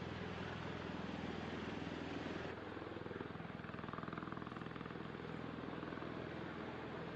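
Bell Boeing V-22 Osprey tiltrotor's engines and rotors running: a steady droning hum over a broad hiss. The higher hiss drops suddenly about two and a half seconds in.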